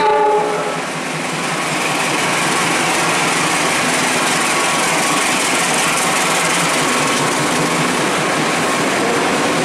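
Freight train passing close by: the diesel engines of CC201 diesel-electric locomotives running as they go past, then container wagons rolling on the rails, a steady loud train noise throughout.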